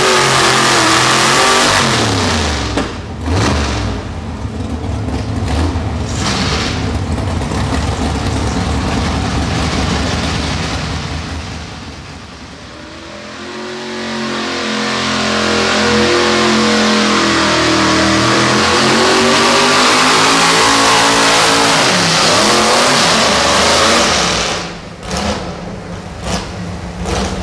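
Pro stock four-wheel-drive pulling truck engine at high revs under load during a pull. The pitch drops about two seconds in and the sound eases around the middle, then the engine revs climb and hold loud before backing off near the end.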